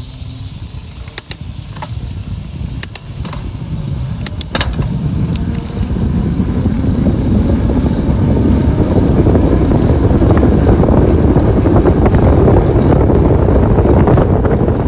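Wind rushing and buffeting over the microphone while cycling, growing louder from about five seconds in and staying loud. A few sharp clicks come in the first five seconds.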